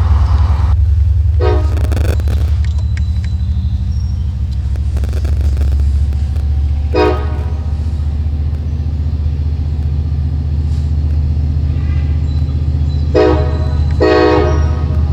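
LIRR DE30AC diesel locomotive sounding its K5LA chime horn in several short blasts: two about a second and a half in, one near the middle and two near the end. Its engine runs with a steady low rumble throughout.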